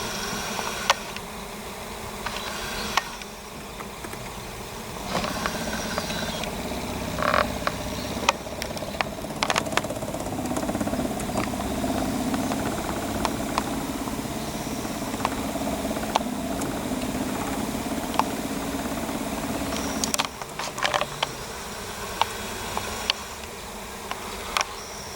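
Honeybee swarm buzzing as a steady hum, swelling louder for most of the middle stretch, with a few scattered knocks and clicks.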